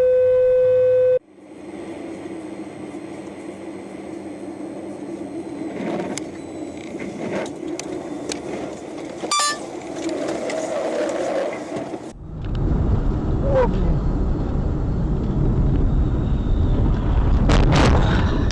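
Vehicle and road noise from dashcam footage. A loud, steady pitched tone sounds for about a second at the start, a short tone comes around the middle, and about two-thirds of the way in the noise turns louder and deeper.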